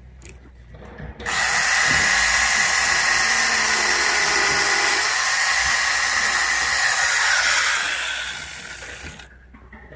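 Electric chainsaw made from an angle grinder with a chainsaw conversion kit, starting up about a second in and running with a steady high whine, then winding down and stopping near the end.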